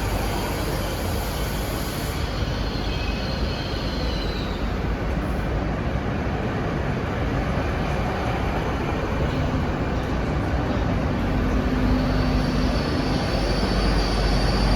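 A Great Western Railway Class 802 train running into the platform: steady rumble with a faint high whine that fades about four seconds in and returns near the end, growing louder toward the end.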